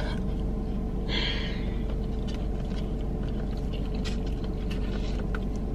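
A person chewing a mouthful of corn, with a few faint clicks of a fork in a foam takeout tray, over the steady hum inside a car.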